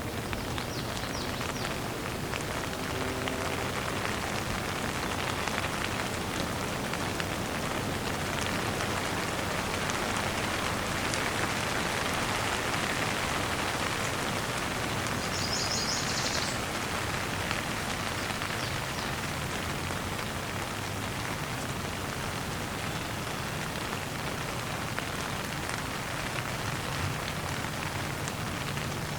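Steady rain falling on a surface, with many individual drops ticking through it. A short high trill sounds about halfway through.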